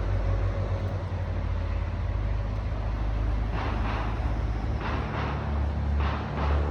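Tofaş Doğan 1.6 ie's 1.6-litre fuel-injected engine running with a steady low hum that shifts slightly in pitch about five seconds in. A few short rushes of noise come over it in the second half.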